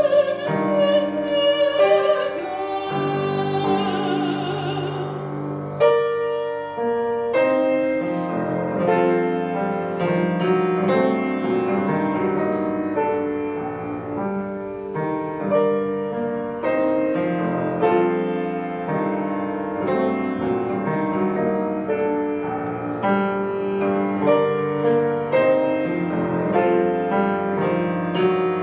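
Soprano singing a held, wide-vibrato line over piano for about the first six seconds, then the piano playing on alone in a series of chords.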